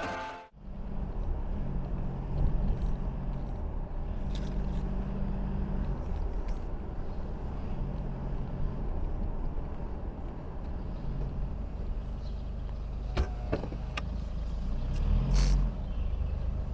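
A car's engine and road noise as a steady low rumble. There are a couple of sharp clicks near the end, and a short louder noise just after them.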